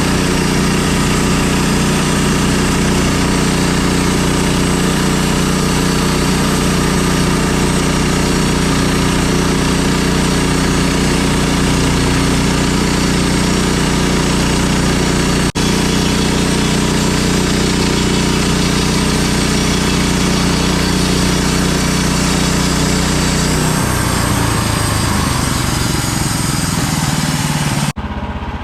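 Sawmill engine running steadily at speed. About 24 seconds in, its pitch drops and it runs rougher.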